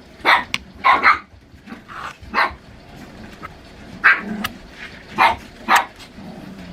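Chihuahua barking in short, sharp yaps, about a dozen at irregular intervals.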